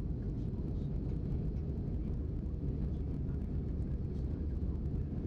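Steady low rumble of a jet airliner cabin in flight, engine and airflow noise without change.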